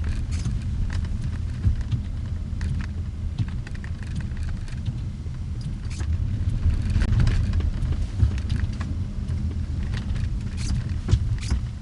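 A car running along the road: a steady low engine and road rumble, with scattered light clicks and ticks over it.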